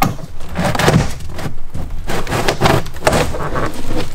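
Irregular knocks, scrapes and crackles of hands working at the car's rear body trim and rusted sheet metal.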